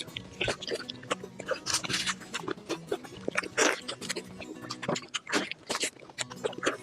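Close-up mouth sounds of someone chewing and biting fatty meat: a quick, irregular run of wet smacks and crunches. Background music plays steadily underneath.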